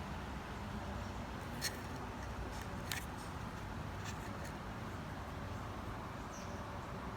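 Two sharp clicks about a second apart and a few fainter ticks, over a steady low hum.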